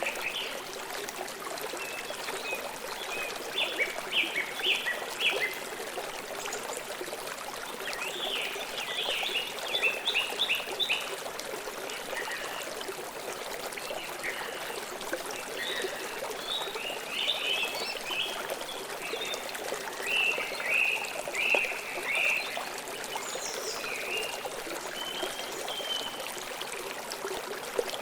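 River water flowing steadily, with a bird calling in several short runs of quick repeated chirps.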